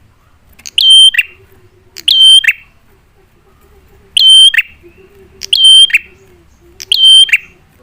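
Prenjak (prinia) call, loud and shrill, given five times about every second and a half. Each call is a held high note that ends in a quick falling note.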